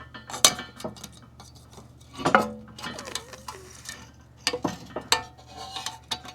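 Metal tools and parts being handled: scattered sharp clinks and knocks, some with a brief metallic ring, the loudest about two seconds in.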